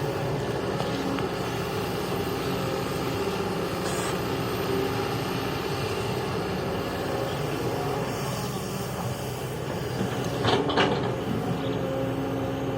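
Heavy construction machine's engine running steadily, with a couple of sharp clanks close together near the end.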